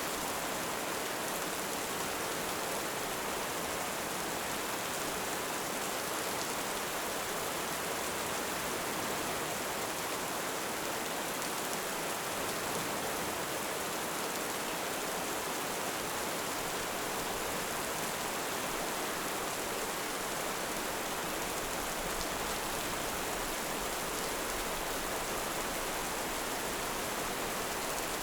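Heavy rain falling steadily, an even hiss that stays constant throughout.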